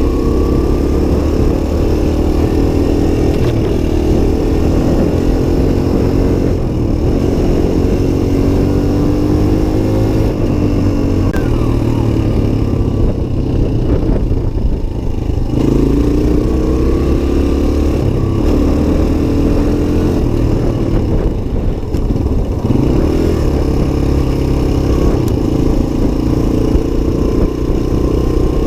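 Suzuki DR-Z125's single-cylinder four-stroke engine running under way, its pitch rising and falling as the throttle opens and closes. The revs sag about halfway through, then pick up again.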